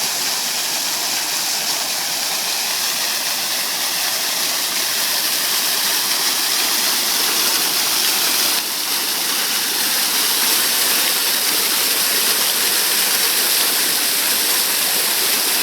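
Water fountain jets splashing down into the pool, a steady rushing hiss.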